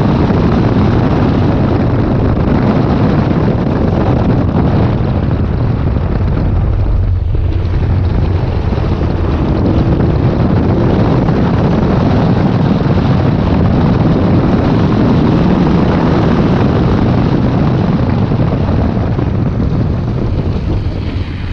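Chevrolet Camaro SS 1LE's 6.2-litre V8 driven hard on wet pavement, mixed with tyre and wind noise. The engine dips briefly about seven seconds in and eases off near the end.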